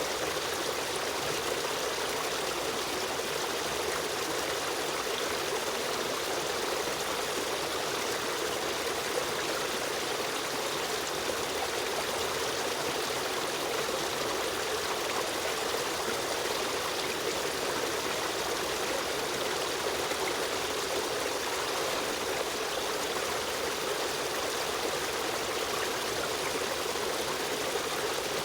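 Stream of running water flowing steadily, an even rushing and trickling with no change.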